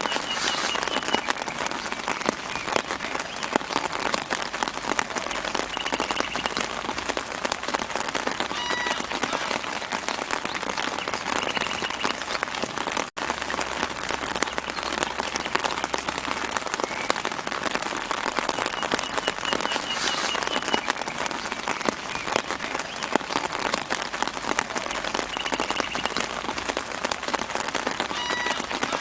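Steady gentle rain pattering on leaves, thick with fine drop ticks, with a few short, high bird chirps coming through every few seconds. A split-second gap in the sound about halfway through.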